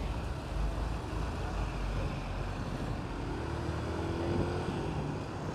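Yamaha Factor 125 motorcycle's single-cylinder engine running steadily while riding in traffic, under a steady haze of road and wind noise.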